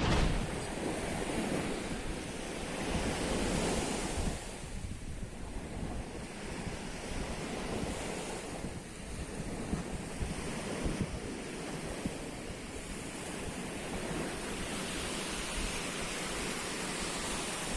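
Sea waves washing onto the shore, the noise rising and falling in slow surges, with wind buffeting the microphone as a steady low rumble.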